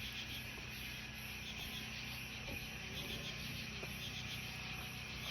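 Insects chirping steadily in a continuous chorus, with a high-pitched pulse repeating about twice a second.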